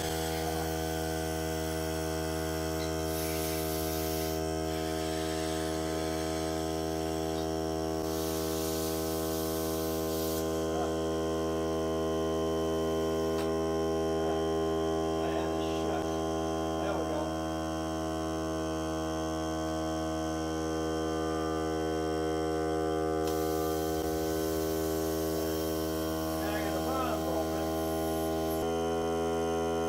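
Hart cordless air compressor running steadily under break-in: an even, droning hum with a fixed pitch. Its tone shifts slightly near the end.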